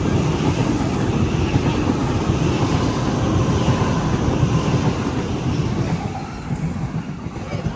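Sydney suburban electric train running past the platform, a loud steady rumble of wheels and motors that dies away near the end.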